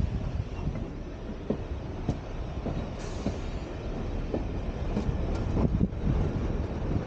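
Train running along the track: a steady low rumble with scattered short clicks and knocks from the wheels and rails.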